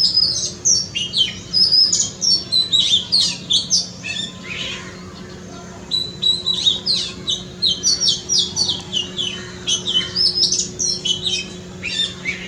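Oriental magpie-robin singing: a fast, varied run of clear whistled notes and trills. The song breaks off for about two seconds near the middle, then starts again.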